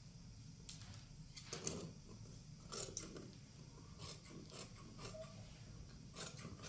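Irregular mechanical clicks and scrapes, like a small mechanism or objects being handled, over a steady low hum.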